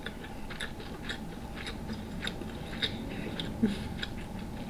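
Close-miked chewing of king crab meat, with a steady run of short mouth clicks and smacks, two to three a second.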